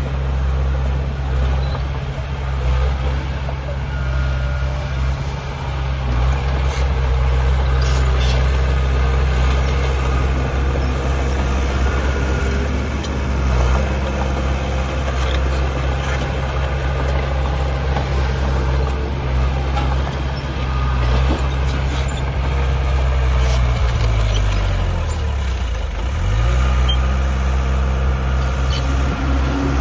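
Heavy diesel engine of earthmoving machinery running under load, its note dropping about three-quarters of the way through and then climbing back up, with occasional clanks.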